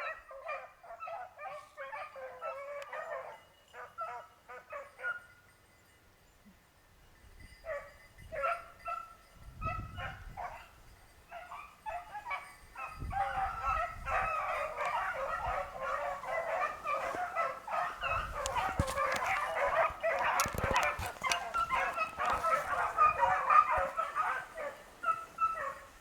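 A pack of beagles baying on a rabbit's track. It begins with a few broken voices, goes quiet for a moment, then builds about halfway in to the whole pack giving tongue together in a dense, continuous chorus, which shows the hounds are hot on the scent.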